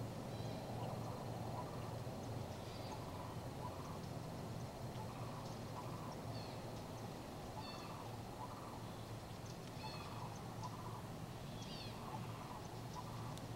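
Wild birds calling outdoors: short high chirps come every second or two over a steady low hum.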